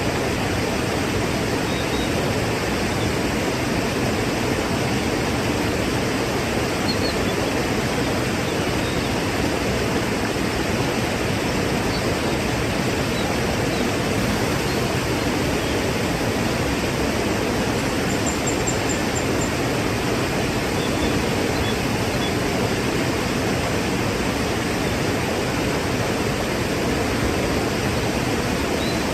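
Waterfall: a steady, unbroken rush of falling water. A few faint high chirps sound over it, with a short quick run of them about two-thirds through.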